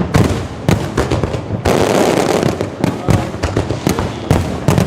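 Fireworks going off: many sharp bangs in quick, irregular succession, several a second, with a denser crackling stretch about two seconds in.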